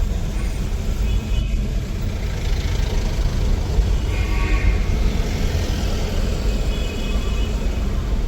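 Road traffic: steady vehicle noise with a heavy low rumble, and a few faint higher tones here and there.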